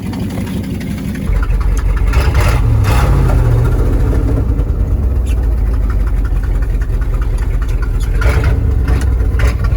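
Old Ford F-250 Highboy truck engine running, revved up about a second in and held at higher speed while the truck sits in neutral.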